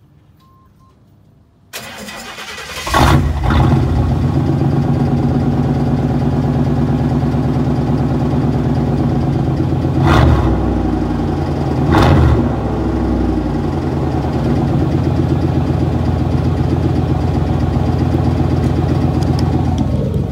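Pickup truck with a new aftermarket exhaust starting up. The starter cranks about two seconds in, the engine catches with a loud flare and settles into a steady idle. It is revved briefly twice, about ten and twelve seconds in, each time falling back to idle.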